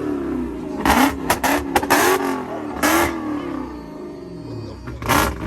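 A car engine revved in quick repeated throttle blips, its pitch rising and falling with each blip, with several sharp loud bursts about a second to three seconds in.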